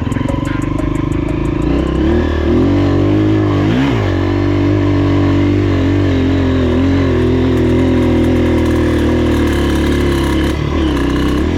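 Honda CRF230F's air-cooled single-cylinder four-stroke engine running steadily, with a short rise in revs about four seconds in and another near the end. A light, regular ticking rides over it in the first couple of seconds; the riders put it down to the valve setting.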